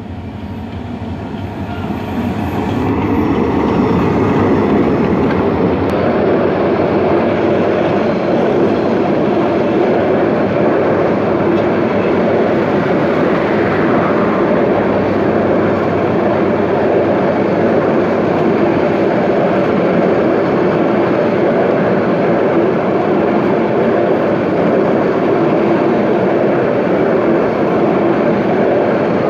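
Kishoreganj Express passenger train running past at speed: a steady rumble of wheels on rails that builds over the first few seconds, then holds loud to the end.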